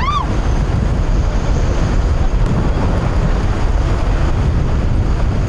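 Strong wind on the microphone, a loud steady rumble without a break. A brief voice-like call sounds at the very start.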